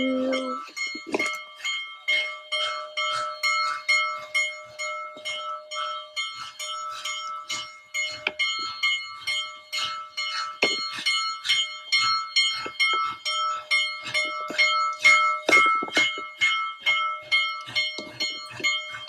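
A steam locomotive's bell ringing steadily, about two to three strokes a second, each stroke ringing on.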